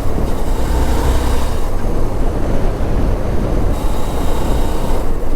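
Motorcycle on the move, heard from the rider's helmet microphone: a steady low rumble of engine and wind rush over the mic.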